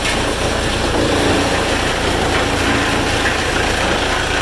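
Sawmill machinery running steadily: a loud, dense mechanical noise with a faint steady hum through it.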